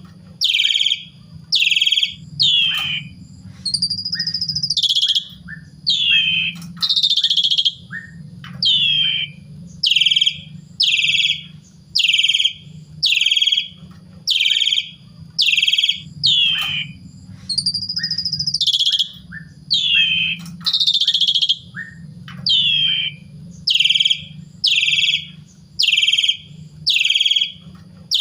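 Asian pied starling (jalak suren) singing: loud, harsh calls repeated in quick succession, a little faster than one a second, each falling in pitch, with a few longer drawn-out notes mixed in. A steady low hum runs underneath.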